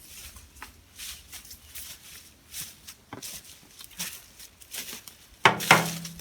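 Footsteps crunching through dry leaf litter at a steady walking pace, about one step every three-quarters of a second, then a louder rustling clatter near the end.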